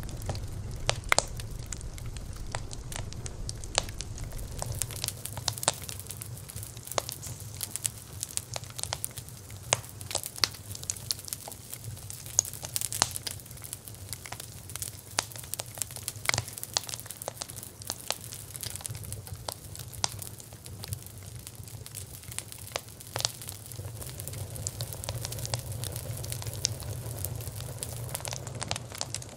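Wood fire burning, with irregular sharp crackles and pops over a low steady rumble of the flames.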